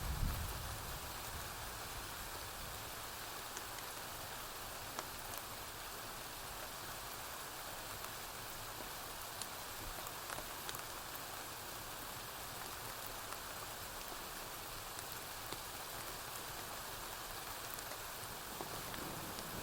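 Steady rain falling on a porch roof, an even hiss with scattered faint ticks. A brief low rumble, the loudest sound, comes in the first second.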